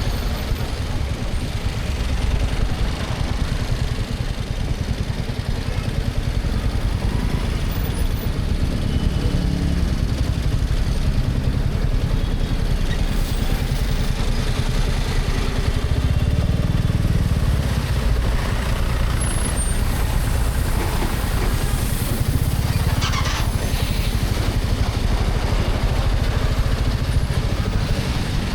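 Motorcycle riding through heavy highway truck traffic, heard from a helmet camera: a steady low rumble of engine, wind and passing trucks. A short hiss comes about three-quarters of the way through.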